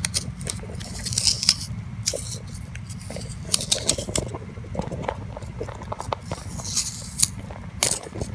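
Scraping and picking out the soft white fruit from inside a fresh gourd piece with a hand tool: an irregular run of small scratches and clicks over a steady low hum.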